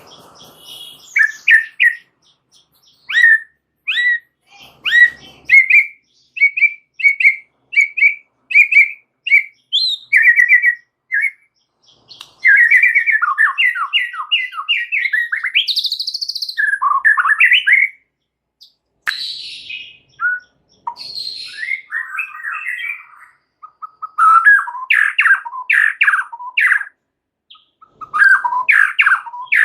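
White-rumped shama (murai batu) singing. First comes a string of short, separate chirped notes, about three every two seconds. From about twelve seconds in it breaks into rapid, varied warbling with a rising whistle, and quick chattering phrases follow to the end.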